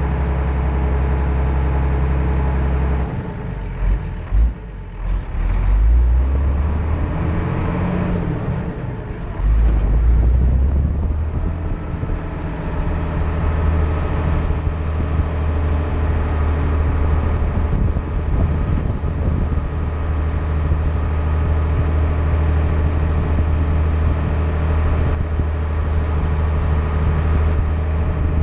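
Classic Mercedes-Benz engine running steadily under way, a low even hum. About three seconds in the engine note drops and wavers for several seconds, then picks up and runs steady again.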